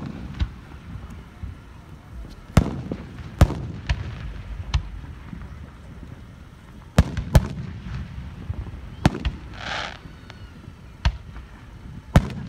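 Aerial fireworks shells bursting overhead: about nine sharp bangs at irregular intervals, each trailed by a low rumbling echo, with a short hiss about ten seconds in.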